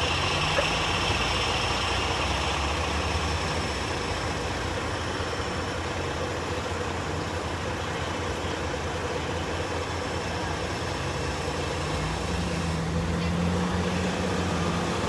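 A large vehicle's engine idling steadily, with a thin high whine above it. About twelve seconds in, the engine note rises slightly.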